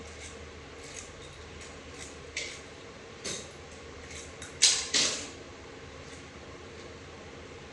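Scattered metal clinks and knocks of hand tools and bolts against a transmission case during disassembly, the loudest two close together near the middle, over a steady faint hum.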